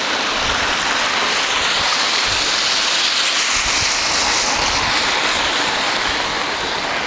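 Heavy downpour hissing steadily, with a few short low thumps of wind on the microphone.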